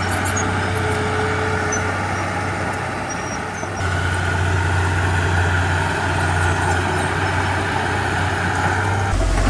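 Heavy diesel earthmoving machinery running steadily under work. Its engine note dips just before four seconds in, then picks up louder again.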